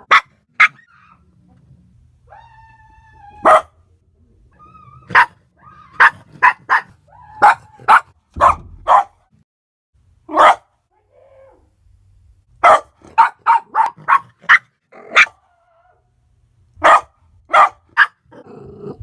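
A dog barking sharply again and again, in irregular runs of two to five barks with short gaps between, set off by knocking and yelling outside the room.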